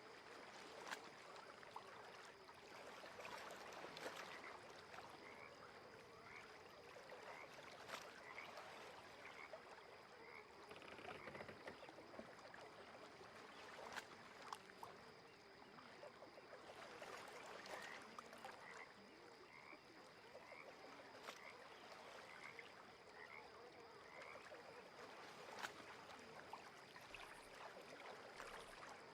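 Frogs calling at a lake, a short rising chirp roughly once a second in long runs, over faint water and a steady high tone, with a few sharp clicks.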